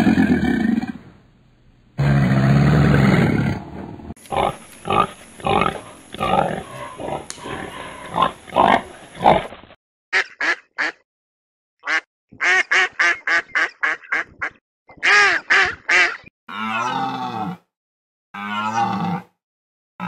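A deep rumbling growl in the first few seconds, then honking and quacking from geese in many short quick calls, ending with two longer, lower calls.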